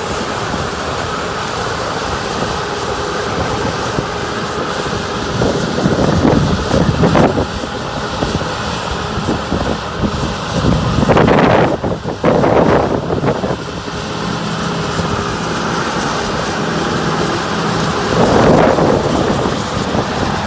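Heavy harvest machinery running steadily with a continuous engine drone, rising in a few louder rushing surges: about six seconds in, for a couple of seconds in the middle, and again near the end.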